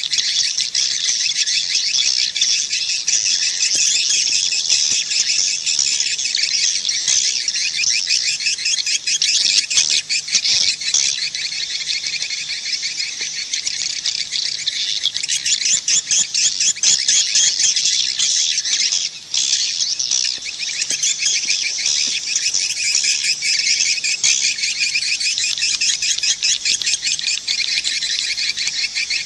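Dense, continuous chorus of swiftlet (walet) calls, rapid high twittering chirps, with a short break about nineteen seconds in. It is a swiftlet calling sound (suara panggil), the recording played at nesting houses to attract swiftlets.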